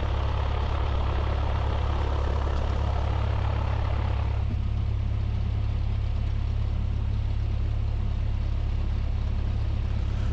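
Cessna 172S's Lycoming IO-360 engine and propeller drone heard inside the cabin through the cockpit intercom, a steady low hum. About four seconds in, the higher hiss above the hum drops down.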